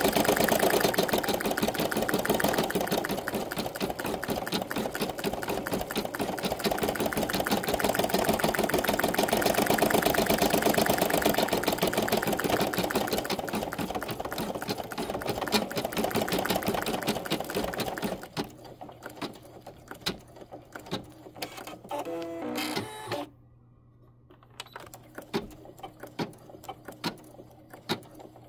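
Embroidery machine stitching an in-the-hoop design at a fast, even rate, then stopping about two-thirds of the way through. After that come scattered clicks and a short rising series of tones.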